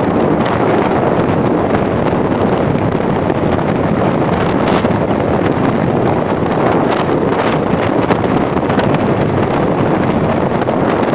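Loud, steady wind buffeting the microphone on a moving vehicle during a ride, with the vehicle's running noise underneath.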